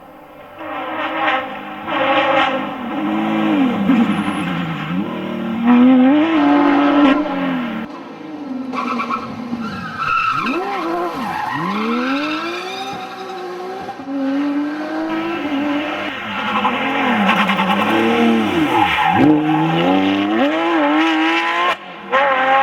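Porsche 911 GT3 RS's flat-six rally engine revving hard, its pitch climbing and falling over and over through gear changes, lifts and downshifts.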